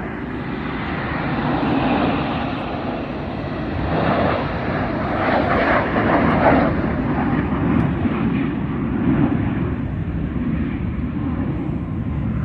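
Blue Angels jet flying past overhead, a loud rushing roar that swells to a peak about halfway through and then eases off.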